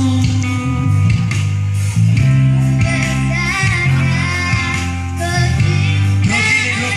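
A girl singing a song over instrumental accompaniment with sustained low notes.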